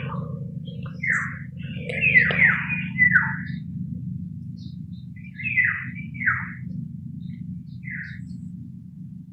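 A bird calling: short notes, each sliding down in pitch, given singly or in quick pairs several times over a steady low hum.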